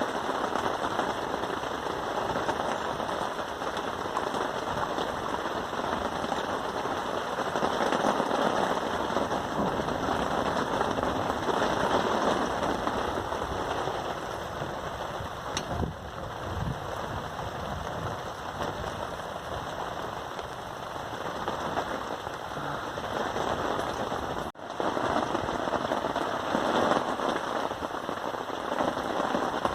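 Steady rain, a dense pattering of countless drops, broken for an instant near the end.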